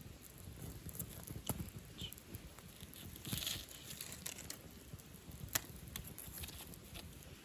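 Wood campfire crackling, with irregular sharp pops from the burning wood and a brief hiss about three and a half seconds in.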